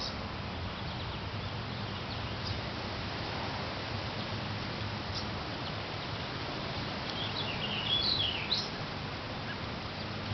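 A songbird sings a short warbling phrase about seven seconds in, with a couple of faint single chirps earlier, over a steady background hiss and a low hum.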